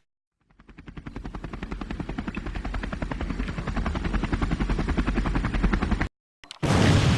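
A fast, even, chopping pulse fades in and grows steadily louder, then cuts off suddenly. A much louder, noisy blast begins near the end.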